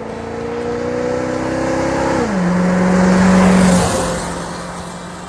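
A car engine accelerating, its pitch climbing slowly, then dropping sharply about two seconds in as it shifts up. It holds steady while growing loudest, then fades as the car passes by.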